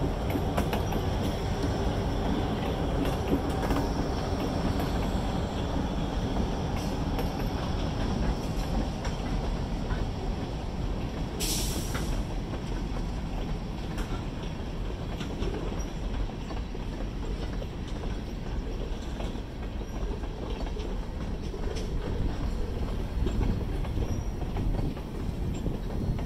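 A freight train passing close by: its diesel locomotive goes by at the start, then a string of tank cars rolls past with a steady rumble and the rattle and clatter of wheels on the rails. About eleven seconds in there is a brief hiss.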